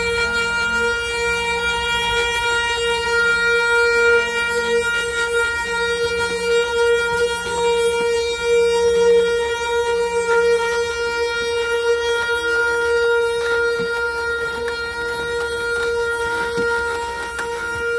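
Wooden ox cart's axle singing: a steady, high, horn-like whine held at one pitch. A lower tone shifts up and down in steps underneath for about the first ten seconds.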